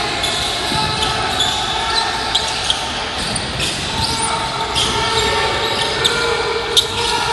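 Basketball game sounds in a gym: a ball bouncing on the court among many short, high squeaks, with players' voices in the background, echoing in the hall.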